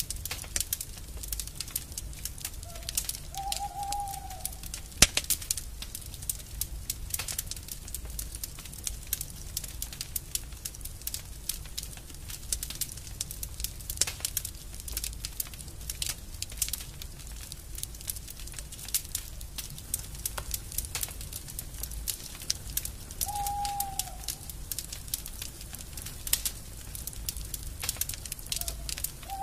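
Burning wood fire crackling, a steady stream of small sharp crackles and pops with one louder pop about five seconds in. A short low bird call, like a dove's coo, sounds a few seconds in and again near the end.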